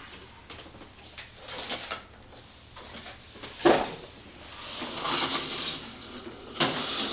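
Cardboard packaging inserts being handled, slid and set down: scraping and rustling, with a sharp knock about halfway through and another near the end.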